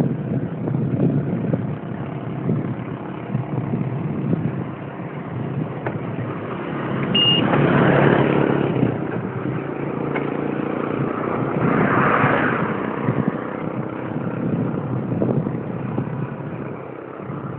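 Road traffic noise heard while cycling: a steady rumble that swells and fades twice, like vehicles passing, with one short high beep just before the first swell.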